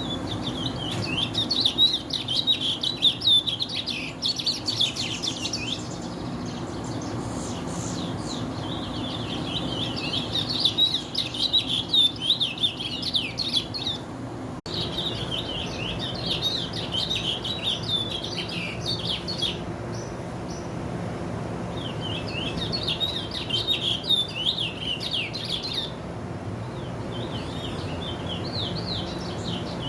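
Curió (chestnut-bellied seed finch) singing: long phrases of rapid, varied notes in about five bouts of several seconds each, with short pauses between them.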